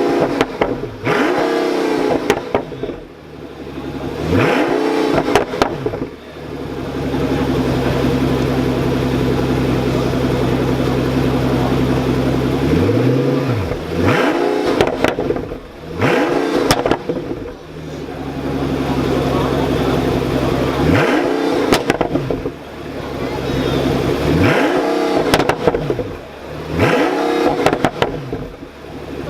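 Pagani Huayra's twin-turbo V12 idling with a steady drone, blipped about seven times, each a quick rise and fall in revs, with sharp exhaust pops and crackles as the revs drop.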